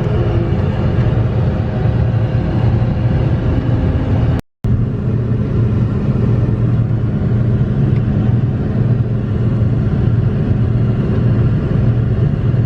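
Heavy farm machine's engine running under steady load, a low, even drone with a constant hum. It cuts out for a split second about four and a half seconds in, then carries on unchanged.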